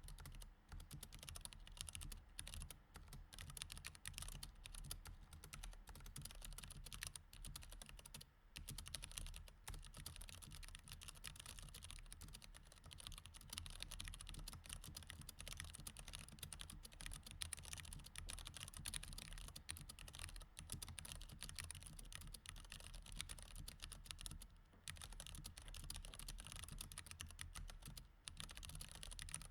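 Mechanical keyboard with Cherry MX Red switches being typed on steadily in rapid, uneven runs of key clicks, with a couple of brief pauses.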